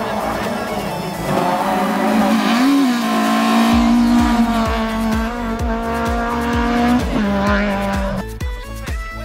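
Peugeot 106 S16 rally car's 1.6-litre 16-valve four-cylinder engine driven hard, its note rising and dipping once and then held high and steady for several seconds before cutting off suddenly near the end. Background music with a steady beat plays underneath.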